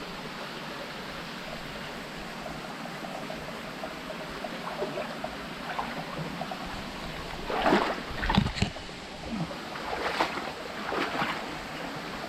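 Steady rush of water trickling and dripping inside a limestone cave. Several short, louder noises break in during the second half.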